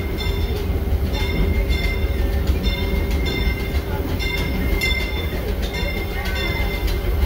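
Narrow-gauge steam train's passenger car rolling along the track: a steady low rumble with a steady hum, and short ringing clicks repeating about twice a second.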